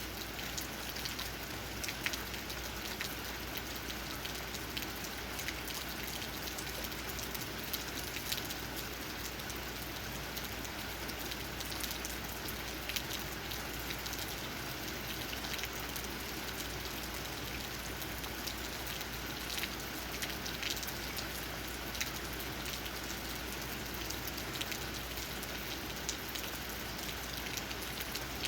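Steady rain falling, with individual raindrops tapping sharply on leaves many times throughout.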